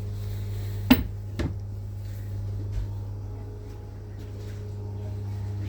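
Steady low electrical hum inside a Class 319 electric multiple unit, with two sharp knocks about a second in and half a second later.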